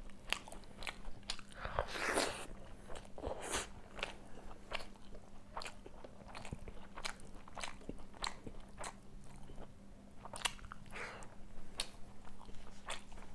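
A person eating fish curry close to the microphone: wet chewing with many short lip smacks and clicks.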